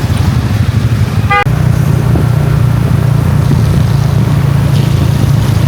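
Road traffic: a loud, steady low rumble of vehicle engines, with one short horn toot about a second and a half in.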